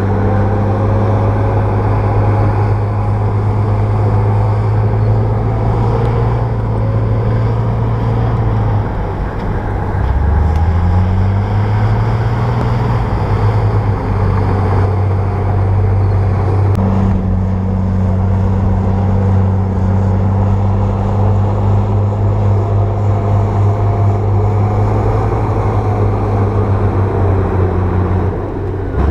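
Bulldozer's diesel engine running steadily under load. About nine seconds in the engine note drops, then revs back up over a few seconds.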